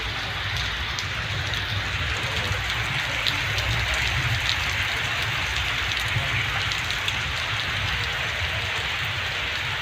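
Heavy rain falling steadily, with scattered sharp drop ticks close by.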